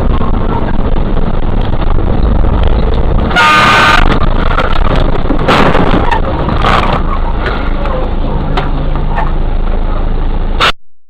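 Loud, steady road and engine noise from a moving vehicle. A horn sounds for about half a second some three and a half seconds in, with two brief noisy bursts a couple of seconds later. The sound cuts off abruptly near the end.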